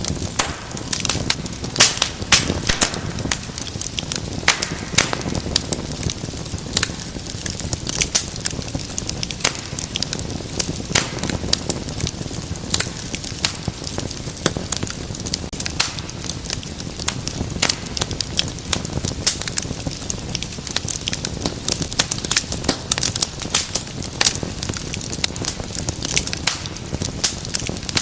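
Wood fire in a fireplace crackling steadily, with many irregular sharp pops and snaps over a low rumble of the flames.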